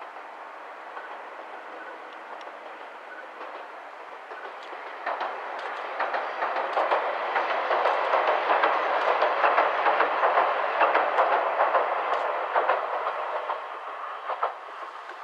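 Two-car Kominato Railway diesel railcar crossing a steel girder bridge, its wheels clattering over the rail joints. It grows louder about five seconds in, is loudest around the middle, then fades away near the end.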